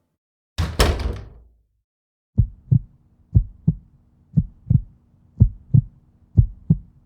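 A sharp impact with a short ring, then a heartbeat sound effect: low lub-dub double thumps about once a second, over a faint steady hum.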